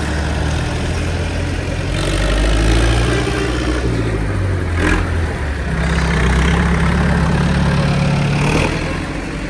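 Tractor engines running as tractors pass close by, one engine note giving way to another about six seconds in, with two sharp knocks, one about five seconds in and one near the end.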